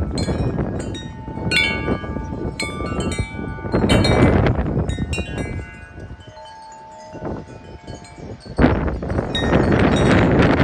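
Wind chimes clanging and ringing in strong gusty wind that buffets the microphone. The wind drops off about six seconds in, leaving the chimes ringing. A sudden gust comes back near the end.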